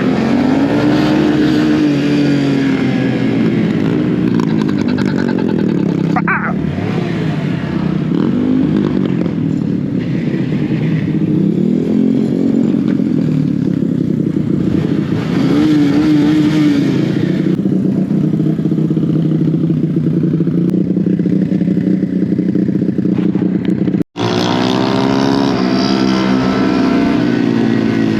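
Mini bike engine running under way, its pitch rising and falling repeatedly as it is revved up and eased off. The sound cuts out for an instant near the end.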